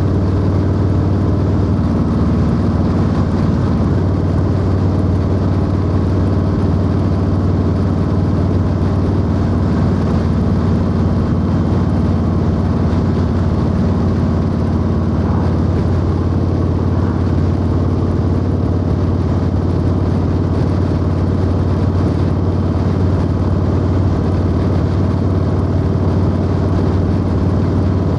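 Harley-Davidson Low Rider S (FXLRS) V-twin engine running steadily at cruising speed, with an even, unchanging engine note throughout.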